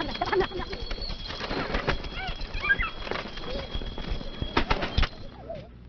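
Birds calling in short arched chirps, with wings flapping and rustling. A few sharp clatters come just before the end, and a thin high tone runs under it until then.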